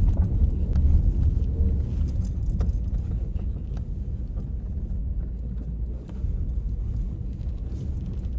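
Low rumble of a car driving slowly along a narrow village road, with a few light knocks. The rumble eases somewhat over the first few seconds.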